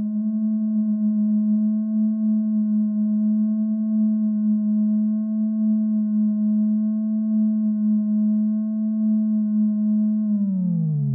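Background music: a steady, sustained synthesized drone tone with ringing overtones, which glides down in pitch near the end.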